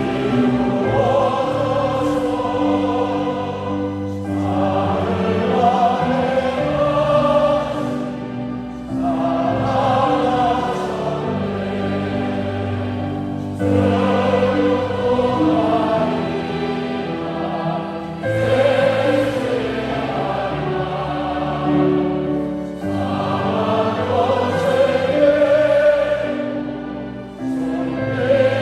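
A choir singing a hymn with instrumental accompaniment, in sung phrases of a few seconds each over held low notes.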